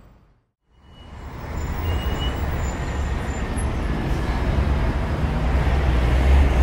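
Steady outdoor background noise with a strong low rumble and a hiss, fading in after a brief silence about half a second in.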